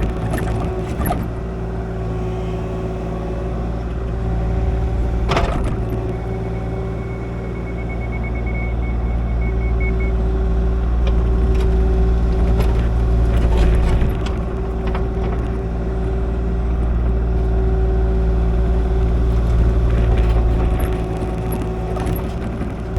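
Kubota KX040 mini excavator's diesel engine running steadily while the machine digs and grades dirt, with scattered knocks from the bucket and arm, the loudest about five seconds in. A faint high beeping runs for a few seconds near the middle.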